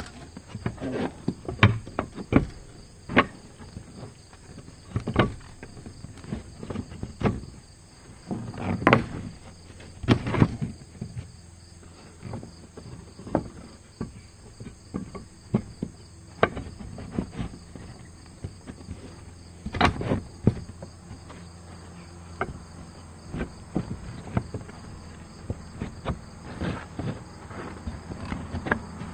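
Irregular knocks, taps and bumps of a wooden window frame and its glass pane being handled and fitted together by hand, with a few louder knocks spread through and quieter handling in between.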